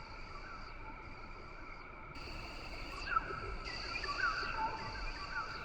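Rain forest ambience: a steady drone of insects at several pitches, with short chirping calls repeating over it.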